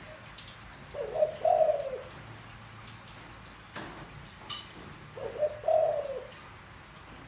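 Spotted dove cooing in a deep voice: two coo phrases about four seconds apart, each lasting about a second.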